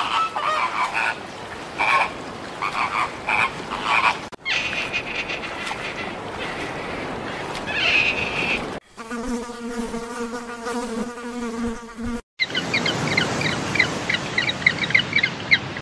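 Several short animal-call clips cut together. First come intermittent high chirps, then a steady buzz with several stacked tones about two-thirds of the way in, then rapid repeated chirps near the end.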